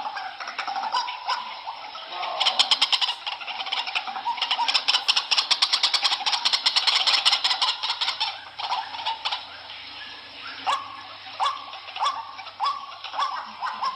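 White-breasted waterhen calling. A dense run of rapid, harsh repeated notes fills the middle, then a series of separate short calls comes about every two-thirds of a second near the end.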